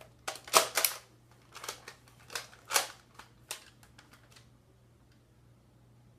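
Hard plastic clicks and rattles from a Nerf toy blaster being handled, about a dozen sharp clicks in small clusters over the first four and a half seconds.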